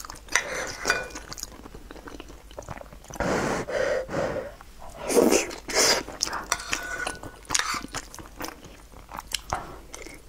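Close-miked eating: wet chewing and mouth sounds with small clicks of a metal spoon against a ceramic bowl, and two longer, louder mouth noises about three and five seconds in.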